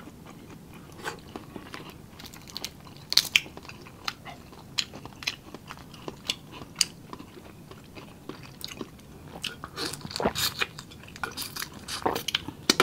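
Close-miked eating: chewing and crunching crab and shrimp, with many short, sharp clicks and crackles that come thicker near the end.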